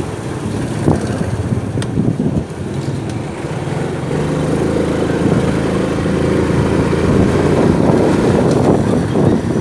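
Motorcycle engine running under way, with wind buffeting the microphone; from about four seconds in the engine settles into a steady drone.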